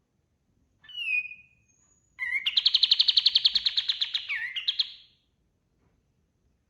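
Kapas tembak (olive-winged bulbul) singing: a short downslurred call about a second in, then a fast, loud, even trill of high notes, about a dozen a second, lasting nearly three seconds.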